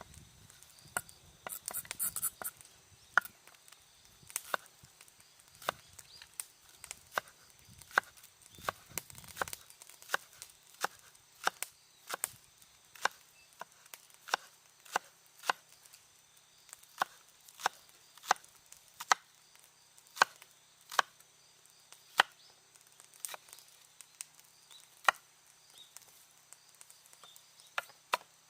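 Kitchen knife chopping on a cutting board, single sharp strikes at an unhurried pace of about one a second. Some rustling handling noise comes in over the first few seconds.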